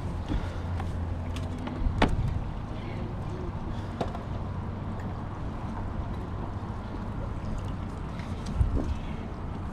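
Steady water and wind noise around a fishing kayak, with a sharp knock about two seconds in, a lighter one about four seconds in, and a low thump near the end.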